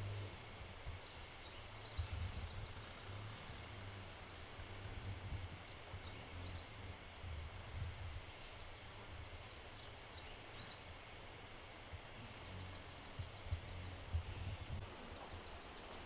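Outdoor ambience: a small bird sings a short phrase of quick descending chirps three times, about every four to five seconds, over a low rumble of wind.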